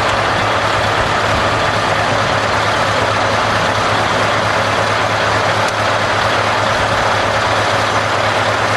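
Scania V8 diesel truck engine running steadily at an even speed, with a constant low hum under a loud, dense rush of noise.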